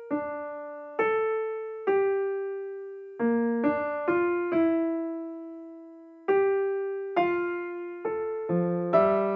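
Background music: a slow piano melody of single notes, each struck and left to fade, with one longer held note near the middle.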